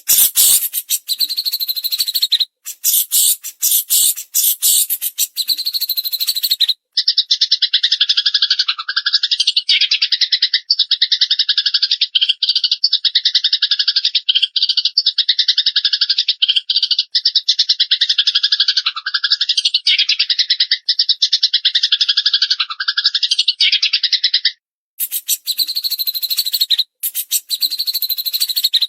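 Loud recorded birdsong from a masteran track of a Eurasian tree sparrow and a cililin. A dense, rapid, high-pitched chattering gives way about seven seconds in to a long, very fast trill of repeated notes. The trill runs for roughly eighteen seconds, and then the high chattering returns near the end.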